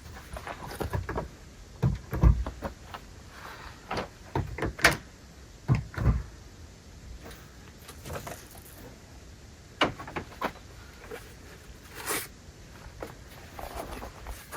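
Irregular knocks and thumps, like doors, lids or gear being handled, with the heaviest ones about two seconds in and again near six seconds in.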